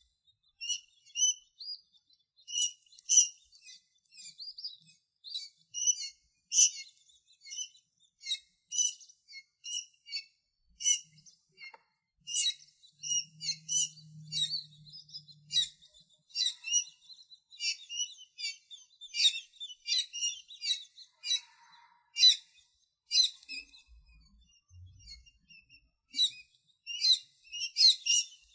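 Tiny birds chirping: many short, high chirps in quick succession, with a few brief pauses.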